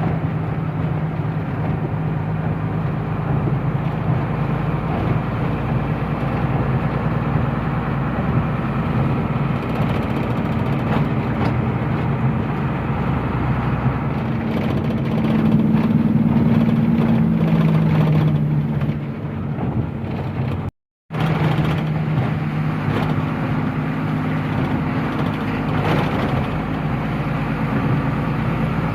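Truck engine running steadily under way, with road noise. The engine note rises for a few seconds past the middle, then drops back. The sound breaks off to silence for a moment about two-thirds through.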